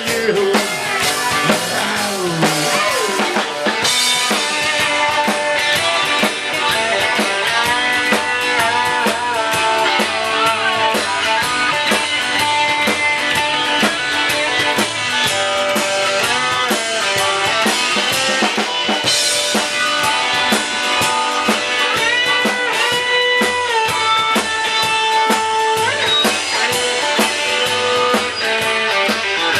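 Rock and roll band playing live in an instrumental passage without singing: drum kit keeping a steady beat under guitar, with a lead line of held, bending notes.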